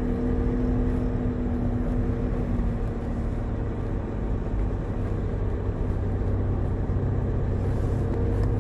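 Car driving, heard from inside the cabin: steady low engine and road rumble, with a steady hum that fades out about two and a half seconds in.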